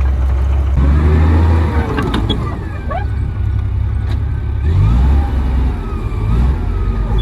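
Komatsu D58P bulldozer's diesel engine running with a deep, steady drone, over high wavering squeaks and a few sharp clanks from the working machine's steel tracks.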